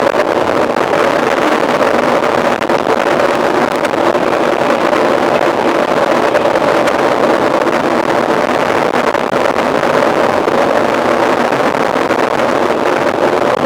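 Steady rush of wind over the microphone of a camera on a mountain bike being ridden, with the bike's running noise underneath; it never lets up.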